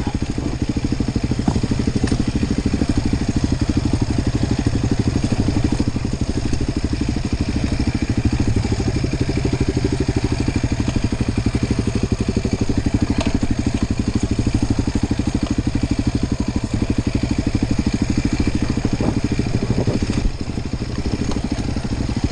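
Enduro dirt bike engine running steadily at low revs, a fast, even pulse with little change in pitch, dipping briefly about twenty seconds in.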